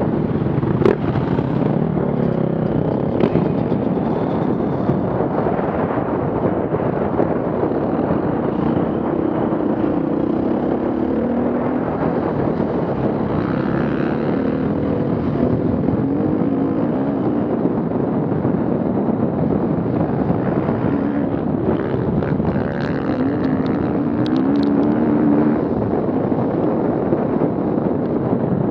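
Off-road vehicle engines running and revving, the pitch rising and falling repeatedly, over a steady rush of noise.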